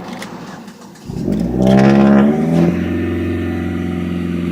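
Car engine starting about a second in, revving up briefly, then settling into a steady idle.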